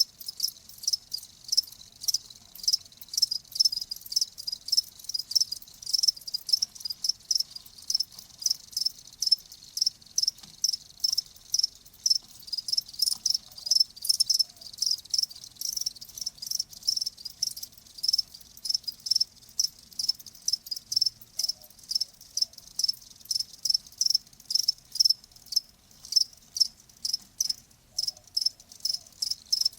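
Cricket chirping in a steady, even run of short high-pitched chirps, about three a second.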